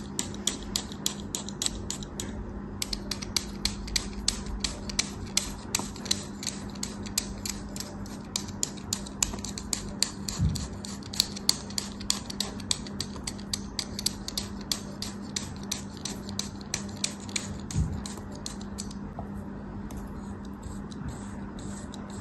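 Knife blade cutting crunchy ASMR material in a rapid run of crisp clicks, several a second, which thin out near the end.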